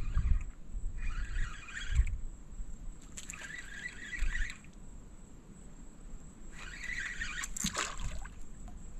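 Water splashing and sloshing in several short bursts as a hooked redfish is worked in beside the boat, with low bumps of wind or handling on the microphone.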